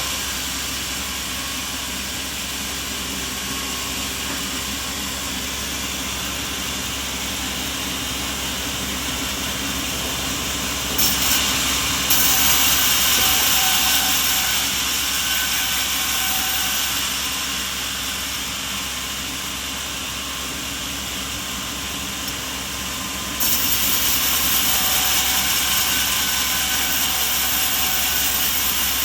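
Steady mechanical running noise with a strong hiss. It gets louder suddenly about twelve seconds in, eases back, then jumps up again a few seconds before the end.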